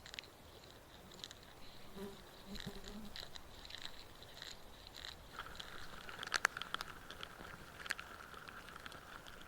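Scattered small clicks and crunches, with a faint steady buzz underneath that drops lower about halfway through.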